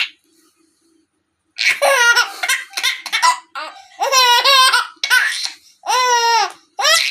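A baby laughing in a string of high-pitched, squealing bursts, starting about a second and a half in after a short quiet.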